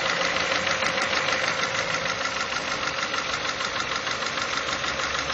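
Petrol car engine idling steadily with a rapid, regular ticking clatter, a noise that is not normal for the engine.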